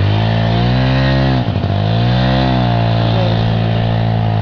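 Yamaha Chappy 80cc two-stroke single-cylinder engine running under way on a test ride after a cylinder rebore. The revs dip sharply about a second and a half in, then pick up again and hold.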